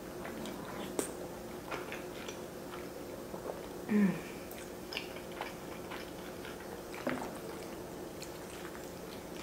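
Close-up wet chewing, lip smacks and soft mouth clicks of someone eating creamy fettuccine alfredo. A short, falling 'mm' about four seconds in is the loudest moment.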